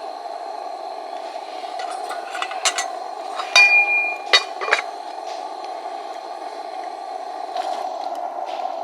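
Tableware clinking: a few light knocks, then a ringing clink about three and a half seconds in, followed by a couple more knocks, over a steady background hiss.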